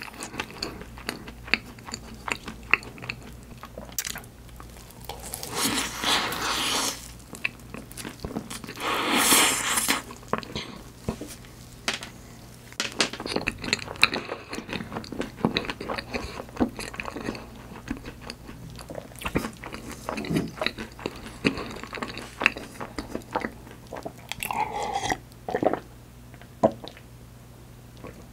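Close-up chewing and crunching of a white-chocolate-coated choux profiterole topped with sliced almonds and chocolate chips, with many small mouth clicks and louder stretches of chewing about six and nine seconds in.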